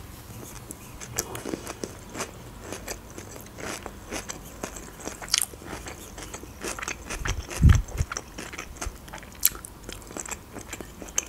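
Close-miked chewing of borscht, with many short wet mouth clicks. There is one dull low thump a little past halfway.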